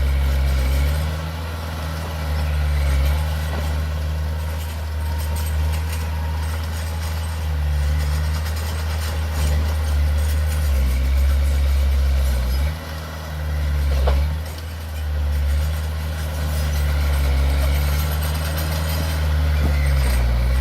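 Heavy diesel engine of earthmoving machinery running, its pitch and level rising and falling with load, with a single knock about fourteen seconds in.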